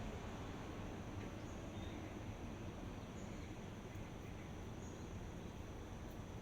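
Steady outdoor ambient noise with faint, short high-pitched chirps every second or two.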